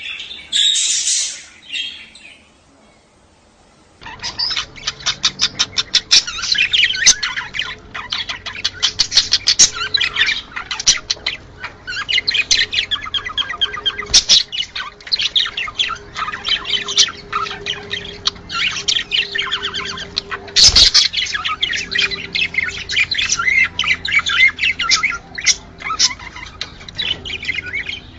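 A flock of budgerigars chattering: dense, fast chirps, squawks and warbles. After a short lull, the chatter resumes about four seconds in and carries on without a break. A single thump sounds near the three-quarter mark.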